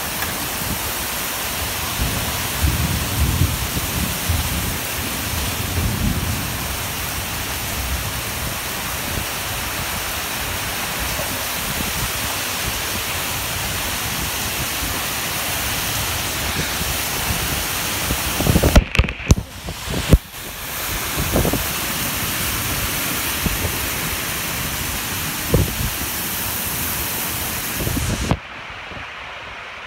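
Heavy rain pouring down in a dense, steady hiss, with strong gusts of wind rumbling and buffeting the microphone. A few loud thumps come about two-thirds of the way in, and the level drops abruptly near the end.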